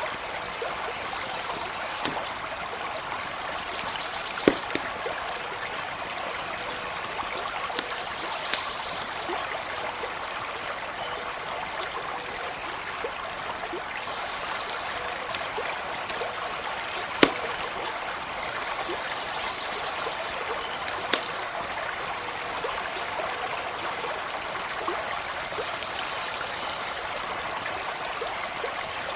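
Stream flowing and trickling steadily, with a campfire giving a handful of sharp crackles and pops over it.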